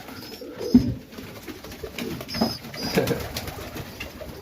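Serbian highflyer pigeons cooing, with a single sharp knock just under a second in.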